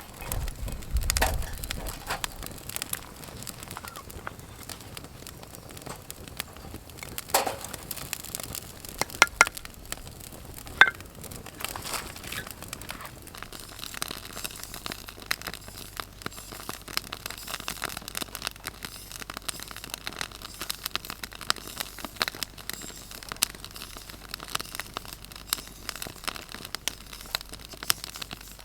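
Wood fire crackling with a few louder sharp pops. A low steady hum comes in about halfway through.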